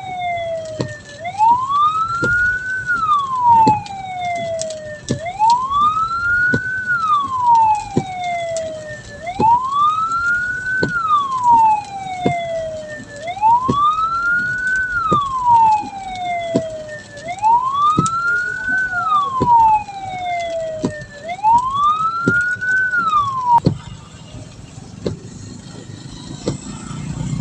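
Hearse's electronic siren wailing in slow cycles, each rising quickly and then falling slowly, about one every four seconds. It cuts off near the end.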